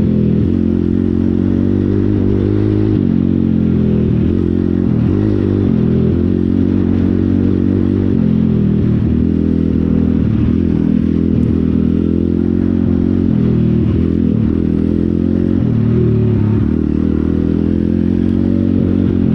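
Pit bike engine running steadily at low speed, its pitch wavering slightly up and down.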